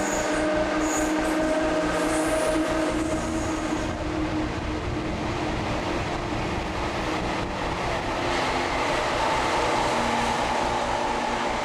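Train running on the rails, a steady rumble with a few brief high wheel squeals in the first few seconds.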